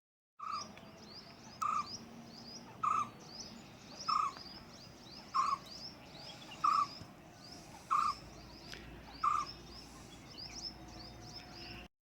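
Forest birdsong: one bird repeating a short, lower call about every second and a quarter, eight times, over many quick high chirps from other small birds.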